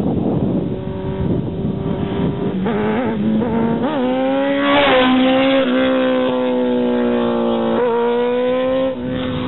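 2004 Kawasaki ZX-10R's inline-four engine through a Racefit Growler exhaust, revved up in a few quick blips and then held high and fairly steady, with the revs dropping near the end.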